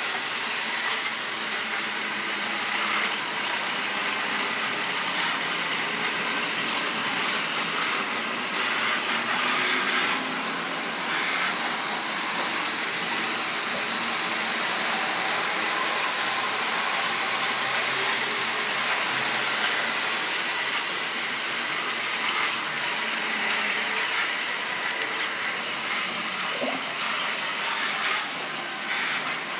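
Model railway train running on the track: a steady whirring hiss of the locomotive motor and wheels on the rails, with faint wavering hum underneath.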